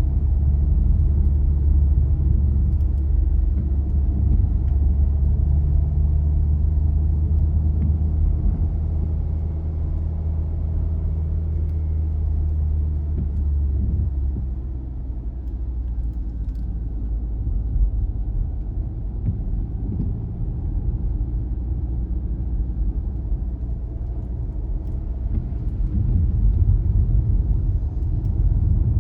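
A car driving, with a steady low engine and road rumble. The rumble eases about halfway through and builds again near the end.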